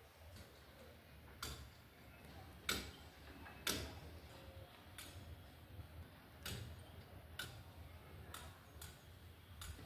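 Irregular sharp clicks or taps, about nine in ten seconds, over a faint low background hum.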